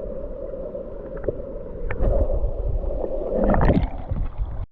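Muffled creek water with a few short knocks and rustles of handling.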